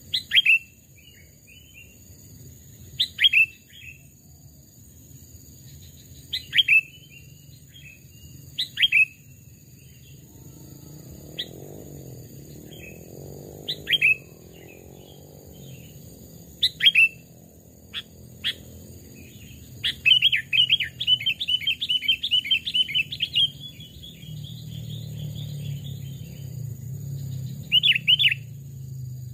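Sooty-headed bulbul calling: short, sharp notes that fall in pitch, given singly or in pairs every few seconds, then a quick chattering run of notes lasting about three seconds, two-thirds of the way through. A steady faint high whine and a low rumble sit underneath.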